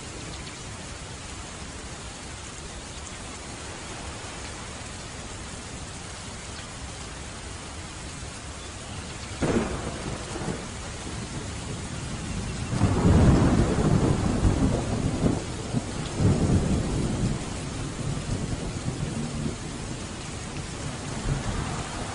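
Steady rain with a thunderstorm: a sharp thunderclap about nine seconds in, then a few seconds later a long, loud rolling rumble of thunder that slowly fades.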